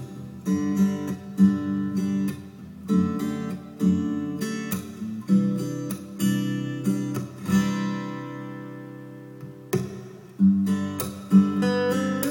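Acoustic guitar music with strummed chords, played back through Bose Companion 2 Series II computer speakers. Past the middle, one chord is left to ring and fade for about two seconds before the strumming starts again.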